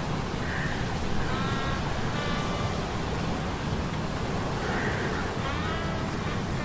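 Sea storm sound effects: a steady rush of surf and wind, with metal gears humming in short, whining tones that come and go, a few of them bending slightly in pitch.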